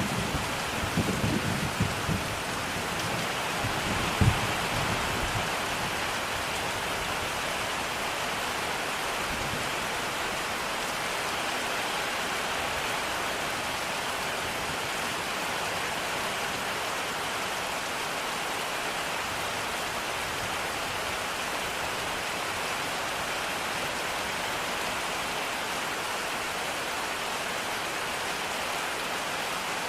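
Steady rain pouring, with a rumble of thunder over the first few seconds, loudest about four seconds in, that then fades away under the rain.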